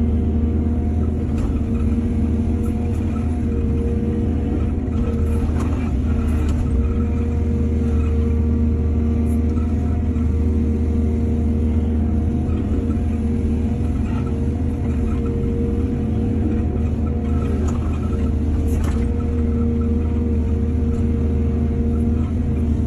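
Heavy diesel engine of an excavator running steadily, with a few brief sharp knocks or scrapes in between.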